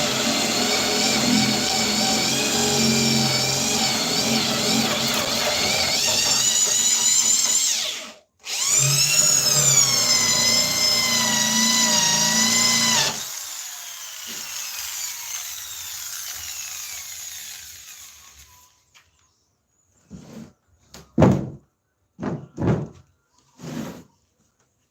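Electric power tool motor running steadily under load. About eight seconds in it cuts out, restarts with a rising whine, then switches off and winds down with falling pitch. A few knocks on wood follow near the end.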